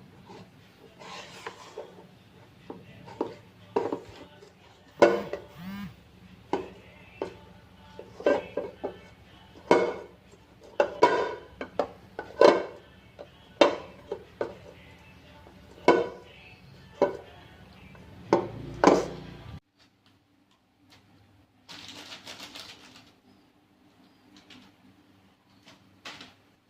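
Kitchen clatter: utensils knocking against dishes and pans in irregular sharp clacks over a low steady hum. The clatter and hum stop suddenly about twenty seconds in, followed by a brief hiss.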